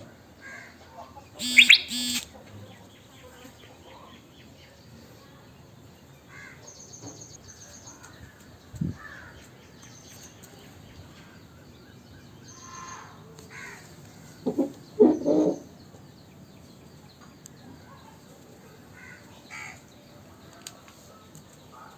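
Scattered bird calls and chirps: a pair of loud calls about two seconds in and another loud cluster about halfway through, with fainter chirps between them.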